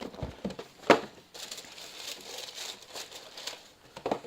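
Tissue paper crinkling and rustling as a sneaker is pulled out of its shoebox, with a sharp knock about a second in and a few soft thumps near the end.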